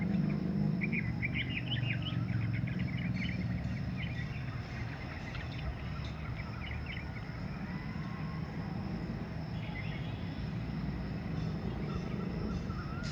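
Steady low drone of running machinery, with birds chirping in quick runs during the first half.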